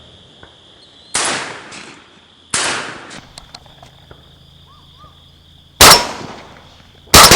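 Shotgun shots: two quieter, more distant bangs early on, then two loud close shots about a second and a half apart near the end, each trailing off in an echo. A steady insect buzz runs underneath.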